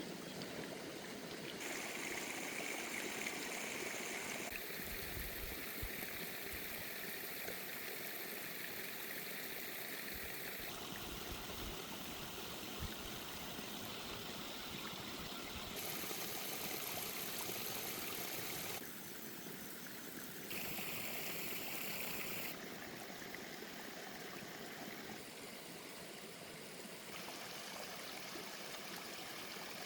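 Steady flowing stream water, a continuous rushing noise whose character changes abruptly several times between edited takes. A few low thuds come in about five and twelve seconds in.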